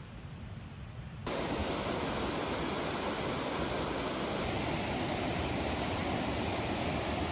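Steady rushing of a waterfall or fast river. It starts abruptly about a second in, after a low rumble, and holds level to the end.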